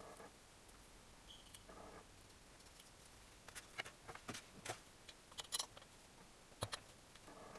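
Scattered faint clicks and taps, from about three and a half seconds in until near the end, over near silence.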